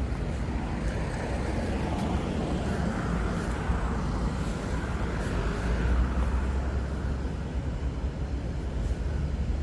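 Street traffic: a steady low rumble of vehicles, with one vehicle passing by that swells and fades over a few seconds in the middle.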